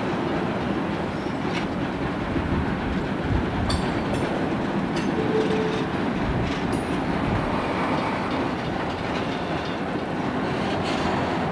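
Freight train hauled by Burlington Northern diesel locomotives going by: a steady rumble of engines and wheels on rail, with scattered sharp clicks of wheels over rail joints and a brief squeal about five seconds in.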